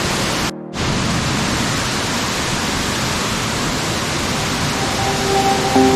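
Steady roar of a waterfall in full flow, rushing water with no let-up apart from a brief dropout about half a second in.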